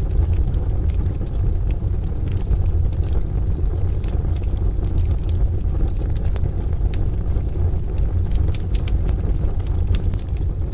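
Wood fire crackling in a stove, with many irregular sharp pops over a steady deep rumble.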